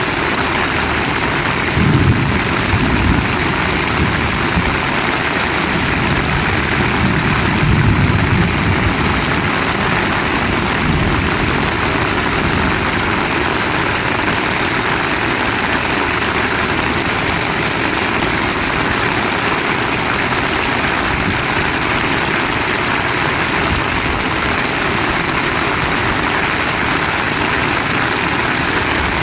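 Heavy rain falling steadily, a loud even hiss, with short low rumbles about two seconds in and again around seven to eight seconds in.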